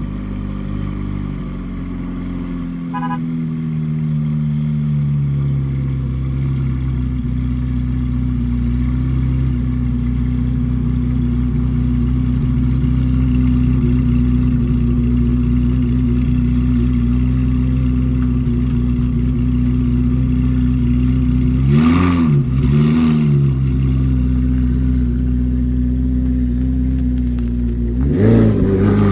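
C8 Chevrolet Corvette V8 exhaust idling, the idle easing lower over the first few seconds and then holding steady. Two quick throttle blips come about three-quarters of the way through, and another just before the end.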